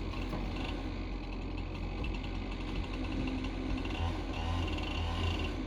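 Chainsaw running steadily with a low drone during the felling cut, the tree not yet falling.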